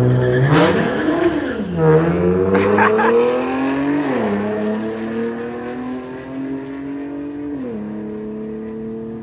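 Infiniti Q60 launching off the drag-strip start line. Its engine is held at steady revs, then climbs and drops back three times as it runs up through the gears, fading as the car pulls away down the strip.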